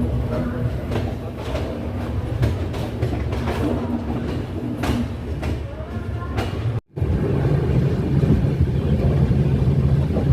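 Vaigai Superfast Express train running on the rails: a steady low rumble with wheels clicking over rail joints at uneven intervals. The sound cuts off abruptly about seven seconds in and gives way to a steadier low hum.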